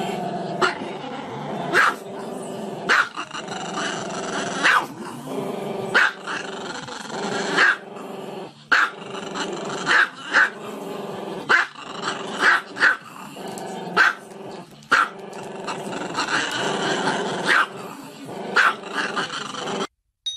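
Small long-haired black-and-tan dog vocalising continuously in a low voice, broken by short, sharp barks about once a second; the sound cuts off just before the end.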